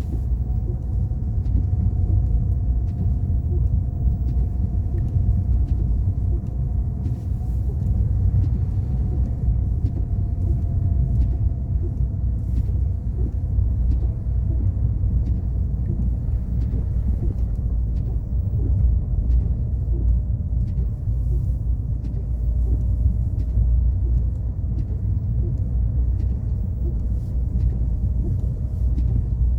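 Car driving, a steady low rumble of engine and tyres with a faint drone that sinks slowly in pitch.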